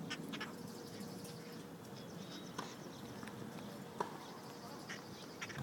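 Wild parrots feeding on apple slices: a few scattered short taps and clicks, the sharpest about four seconds in, with faint rapid high-pitched chatter near the start and end.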